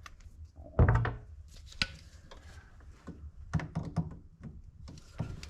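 Knocks and clicks of tools and fittings being handled during plumbing work on water pipes: a heavy thump about a second in, a sharp click shortly after, then a quick run of smaller knocks and clicks.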